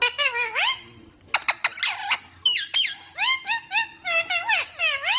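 Baby parrots calling one after another in a rapid series of short calls that dip and rise in pitch, mixed with quick sharp chirps.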